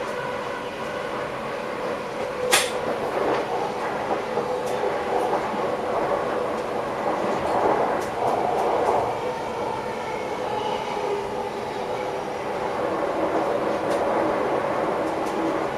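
Passenger train running, heard from inside the driver's cab: a steady rolling rumble with an even hum from the running gear. There is one sharp click about two and a half seconds in and a few faint ticks after it.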